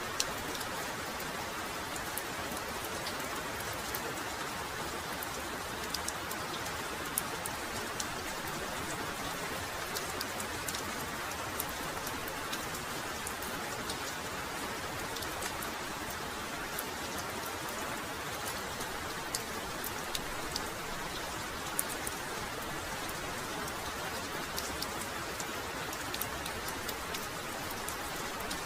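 Heavy rain falling steadily, a continuous hiss with many individual drops ticking sharply on top.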